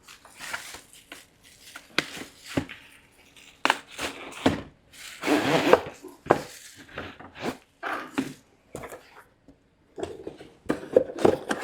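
Irregular clicks, knocks and rustling from an LED shop light being handled.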